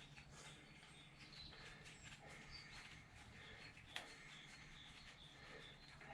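Near silence, with faint bird chirps in the background and a single faint click about four seconds in.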